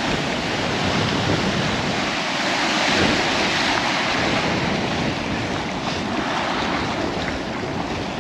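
Surf washing on the beach, with wind buffeting the microphone; the wash swells a little about three seconds in.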